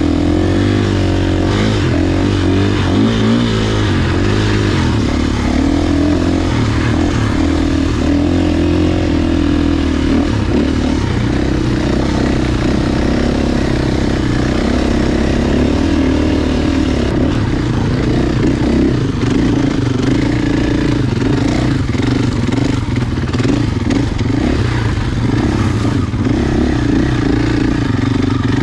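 Motocross bike engine running steadily under changing throttle while riding, its pitch rising and falling throughout.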